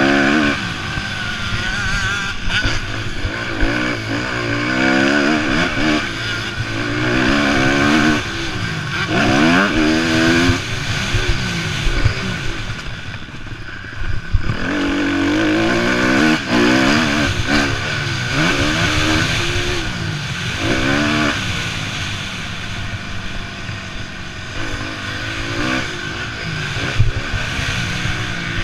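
Several motocross bikes racing, their engines revving up and falling away again over and over as they accelerate, shift and pass, with more than one engine heard at once.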